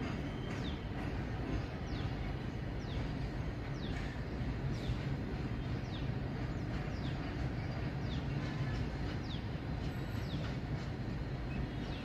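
Freight train of covered goods wagons rolling past, a steady low rumble of wheels on rail. Short high falling squeaks recur about once a second over the rumble.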